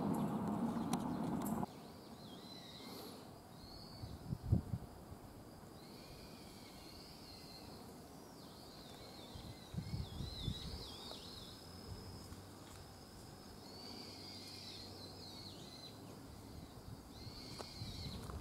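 Birds singing outdoors in repeated short warbling phrases over a quiet background, with a few dull thumps around the middle.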